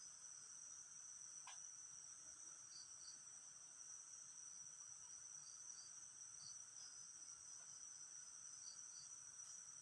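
Faint, steady high-pitched insect chorus, with a single faint tick about a second and a half in.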